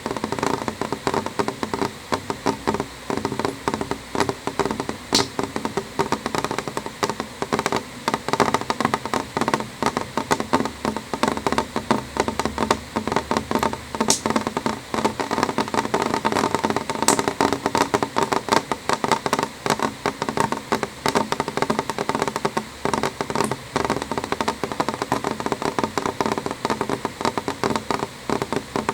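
Rain on a window pane: dense, irregular tapping of drops over a steady hiss, with a few sharper ticks.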